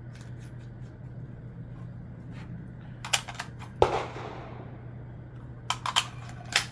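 Rifle-handling clicks and knocks: a few quick sharp clicks about three seconds in, a louder sharp crack with a short ringing tail just before four seconds, and another run of clicks near the end, over a steady low hum.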